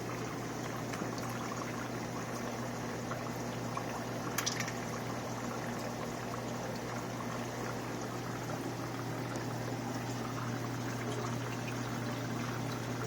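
Aquarium water running and splashing steadily, the circulating flow of the tank's filter heard with the canopy open, over a constant low hum. A faint tap about four seconds in.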